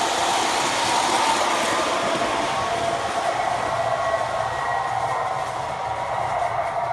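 MTH model subway work train, an NW2 switcher pulling R17 cars, running steadily along the track: a continuous rolling and motor noise with faint clicking, with no change in pace.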